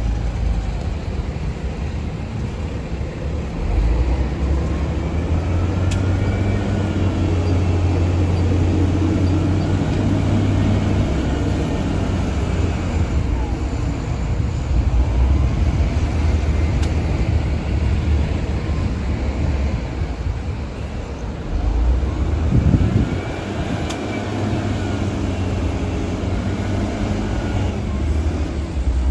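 Shantui DH17-C2 bulldozer's diesel engine working under load while pushing sand, its steady rumble rising and falling with the load, with a brief surge a little past two-thirds through.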